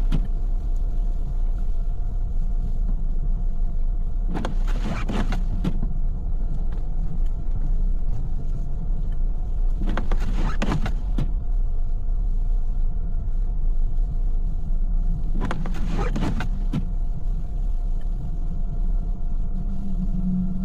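Steady road and engine rumble inside a moving car on snowy streets, with a short swishing sweep about every five and a half seconds, in the rhythm of windshield wipers on an intermittent setting.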